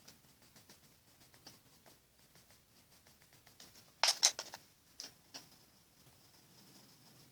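Watercolour pencil working on paper in light, scattered scratching strokes, with a louder cluster of quick knocks about four seconds in and two smaller knocks a second later.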